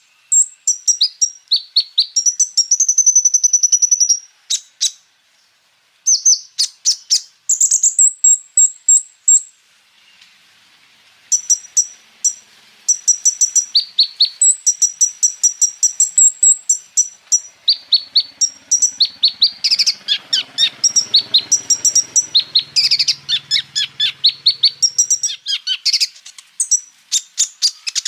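Kolibri ninja (konin) sunbird singing fast, high runs of chirps and trills, breaking off briefly about five seconds in and again around ten seconds.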